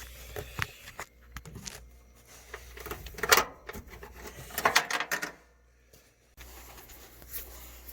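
Small screws and a replacement thermal fuse being handled and started by hand in the dryer: scattered light clicks and rattles, with two louder bursts of clatter about three and five seconds in.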